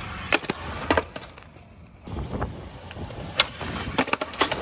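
Skateboard wheels rolling on concrete, with a rumble that swells about two seconds in. Sharp clacks of the board come once early and then in a quick cluster near the end.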